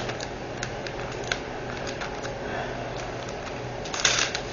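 Scattered small sharp plastic clicks and taps, with a quick cluster of them near the end, from handling diamond painting drills and their small plastic storage containers.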